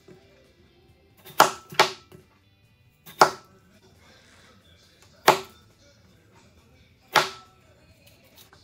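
Chef's knife cutting a peeled russet potato into chunks, the blade striking through onto a wooden cutting board five times at uneven intervals, the first two close together.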